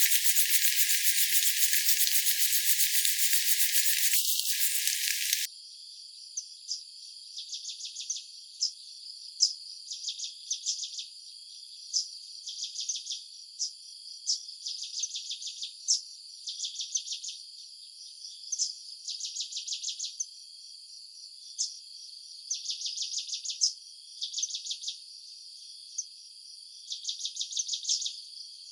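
A loud steady hiss that cuts off suddenly about five seconds in. It gives way to insects chirping in short pulsing trains, each about a second long, repeating every second or two.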